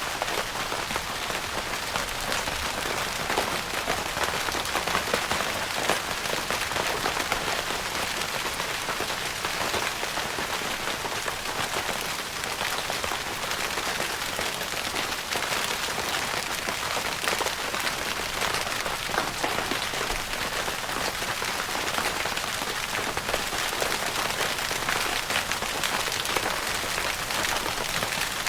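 Steady rain on a tent's fabric roof, a dense pattering of many small drop ticks.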